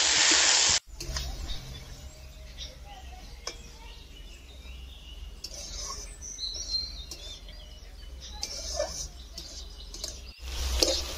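Diced potatoes sizzling in hot oil in an iron wok, cutting off suddenly within the first second. Then quieter outdoor sound: birds chirping, mostly around the middle, over a low rumble and a few faint clicks.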